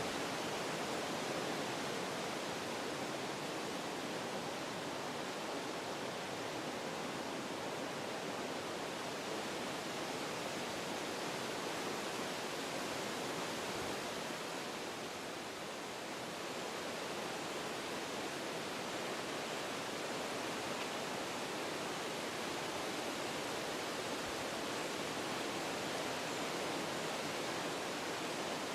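Wind blowing through forest trees, a steady rushing of leaves and branches. It eases a little about halfway through, then picks up again.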